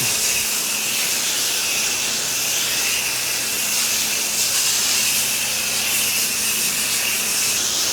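Spray nozzle hissing steadily as it lays a light coat of cleaning solution onto the floor, left to dwell, with a faint steady low hum underneath.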